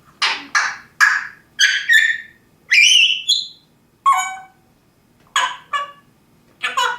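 African grey parrot giving a string of loud, short squawks and whistles, about a dozen calls in clusters with pauses between them. One call rises into a whistle about three seconds in.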